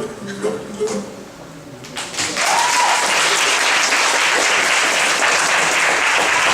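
Guitar music fades out, and about two seconds in an audience breaks into loud, sustained applause.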